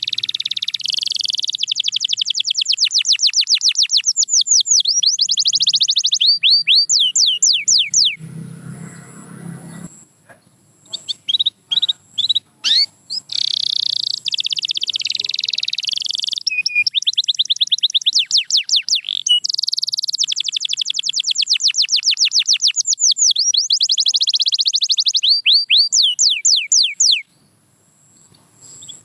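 Domestic canary singing: long phrases of fast trills and rapid repeated notes, each ending in strings of falling whistled sweeps. The song breaks off about eight seconds in, starts again a couple of seconds later, and stops near the end.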